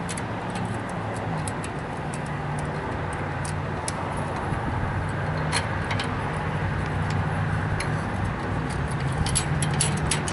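Light metallic clicks and taps of a bracket, washer and bolt being fitted to a line striper's frame, coming more often near the end. A steady low hum runs underneath.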